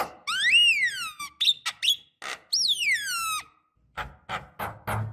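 Javan myna calling: a long whistle that rises and falls, a few short clipped notes, then a second whistle gliding down in pitch, followed by a quick run of short harsh notes near the end.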